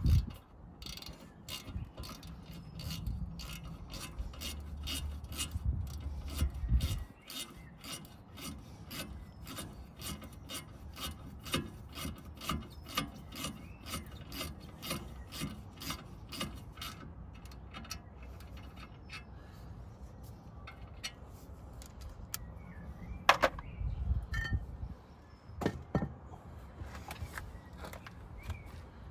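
Hand tools working on a car's front brake caliper: a ratchet clicking steadily, about two or three clicks a second, for much of the time, with some rubbing and scraping of metal. A single sharp knock comes about two-thirds of the way through.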